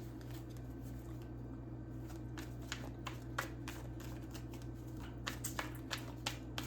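Tarot cards being shuffled by hand: a run of quick, irregular card flicks and snaps starting about two seconds in, over a steady low hum.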